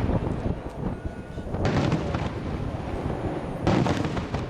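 Aerial firework shells bursting in a starmine barrage: two sharp booms, about a second and a half in and near the end, over a continuous low rumble of echoing detonations.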